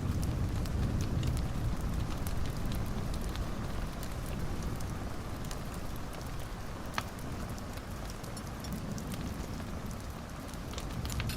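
Wood fire burning in a fireplace: a steady low rush of flames with scattered crackles and one sharper pop about seven seconds in.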